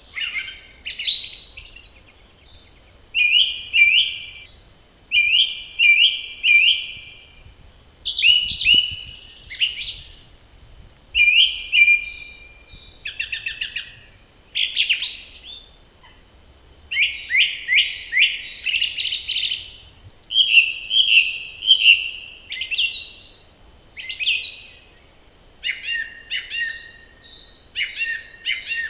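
Songbirds singing in spring woodland: a run of short, varied song phrases, some repeated several times, with brief pauses between them.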